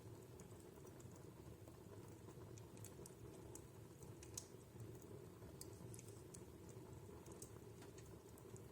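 Wood fire crackling faintly in a fireplace: scattered sharp pops and ticks over a soft low rumble of the flames, with one pop standing out about four seconds in.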